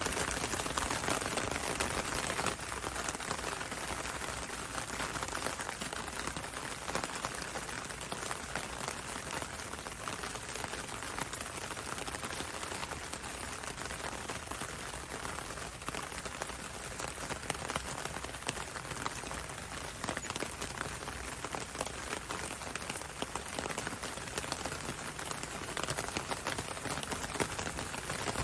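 Steady rain falling on a window and a road, with a continuous hiss and many small drop ticks.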